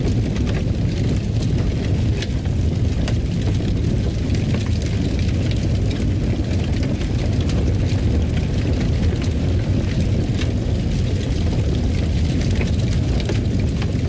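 Fireplace fire crackling: a steady low rumble of the flames with frequent small irregular pops and snaps.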